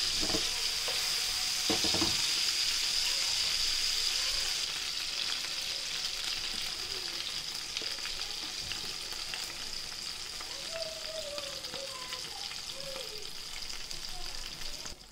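Chicken pieces sizzling in hot oil in a frying pan, a steady hiss that slowly gets quieter. There are two knocks about a second apart near the start and light clicks of plastic tongs against the pan as pieces are lifted out.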